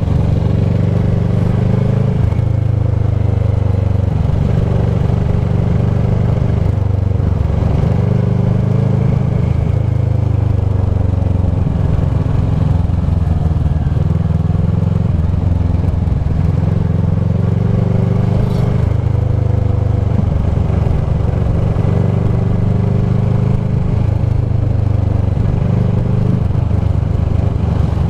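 Kawasaki ER-6f's parallel-twin engine running through a Leo Vince SBK slip-on exhaust. The pitch falls and rises gently every few seconds as the throttle changes.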